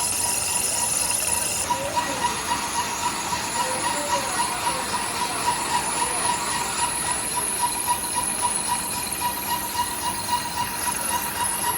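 Workshop machinery running: a steady hiss with a regular pulsing beat of about three pulses a second and a pulsing whine, the high hiss dropping away about two seconds in.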